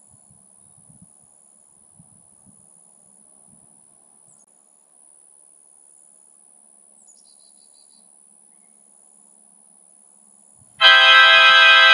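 Faint low rustling under a steady thin high whine; near the end a loud sustained buzzing tone with many pitches at once starts suddenly and holds.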